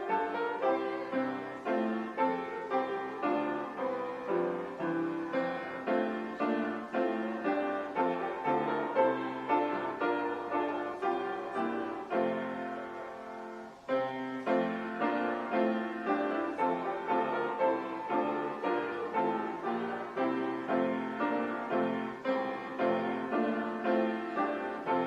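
Piano playing a hymn tune in struck chords at a steady pace, breaking off briefly just past halfway before the next phrase begins.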